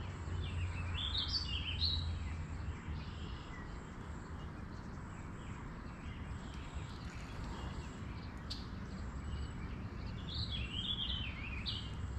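A songbird singing two short warbling phrases, about a second in and again near the end, over steady background noise.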